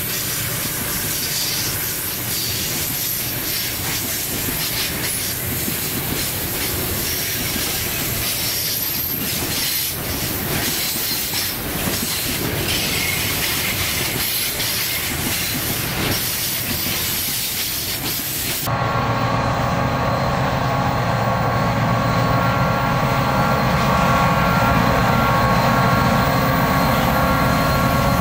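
Freight cars rolling past close by: the wheels clatter over the rails with some wheel squeal. About two-thirds of the way through, the sound changes abruptly to a steady drone of diesel locomotives running under power, a little louder.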